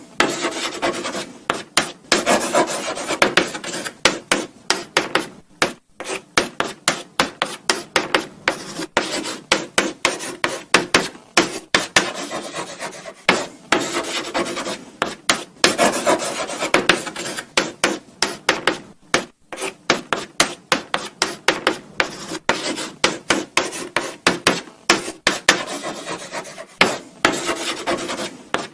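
Chalk writing on a blackboard: quick, scratchy strokes several times a second, broken by short pauses between words.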